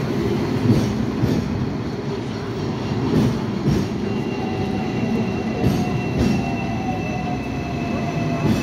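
Hong Kong tram running on its rails: a steady rumble with irregular wheel knocks. About halfway through, a high, thin wheel squeal joins in and slowly slides down in pitch.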